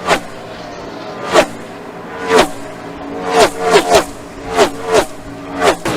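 NASCAR Cup cars' V8 engines passing close by at racing speed one after another, each pass a quick burst that drops in pitch as the car goes by. About ten cars go past, spaced out at first and bunched close together from about halfway through.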